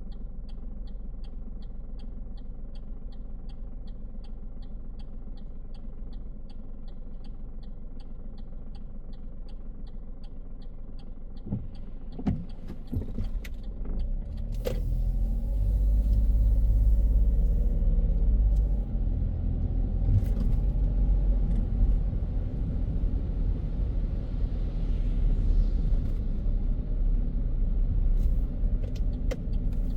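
Inside a car: the turn-signal indicator ticks evenly over a low engine idle, then after a few knocks the car pulls away and the engine and tyre rumble grows louder and continues.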